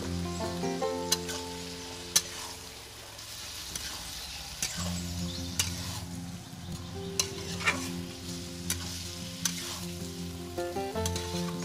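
Metal spatula stirring mutton curry in a sizzling kadai, knocking and scraping against the pan about once a second, over background music of held notes.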